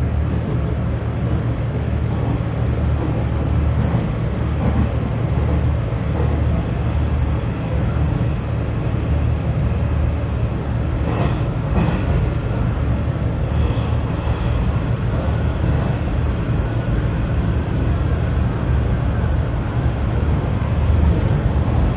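Running noise of a Hanshin Railway electric train, heard on board: a steady low rumble with a couple of faint clicks about halfway through.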